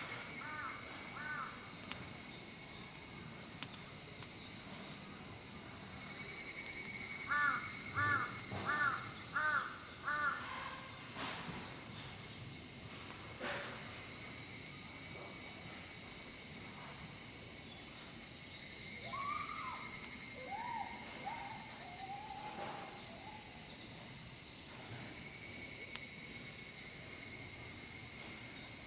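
Crows cawing in short runs of four or five caws, at the start and again about eight seconds in, with a few lower calls later. Under them a steady high insect drone of summer crickets runs throughout, with a few sharp clicks.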